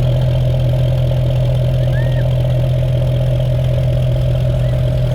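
An engine idling steadily with an even, unchanging hum, and a short faint squeak about two seconds in.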